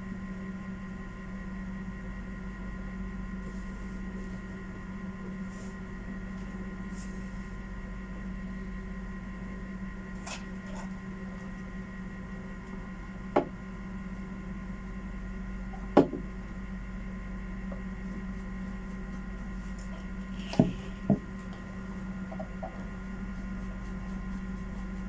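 A steady low hum, with four short sharp knocks spread through it, the last two close together.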